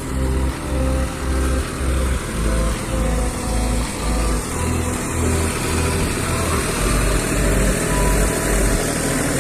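Massey tractor engine running steadily, under the pulsing bass beat of background music.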